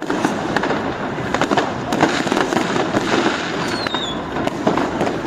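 Fireworks and firecrackers going off densely, a steady run of bangs and cracks. A little past halfway, a short falling whistle sounds over them.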